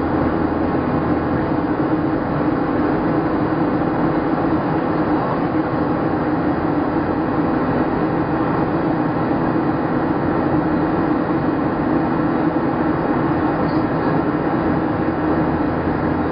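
Steady cabin noise inside a Boeing 737-700 airliner: the CFM56 engines' hum and air rush with a constant low drone, unchanging throughout.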